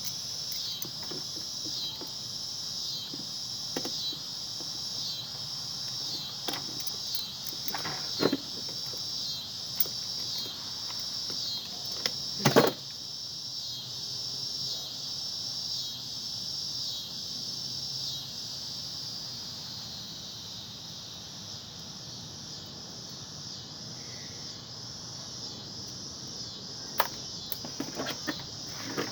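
Insects chirping in a steady high-pitched pulse, about three chirps every two seconds, fading in the second half. A few sharp knocks and clanks from work on the ice maker's parts stand out, the loudest about halfway through.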